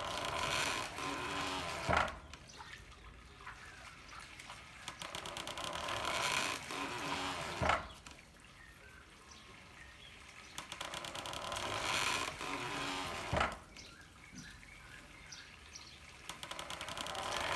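Handmade water-powered corn mill fed by bamboo pipes: a rush of pouring water builds and then ends in a single hard knock, in a steady cycle about every six seconds, three knocks in all.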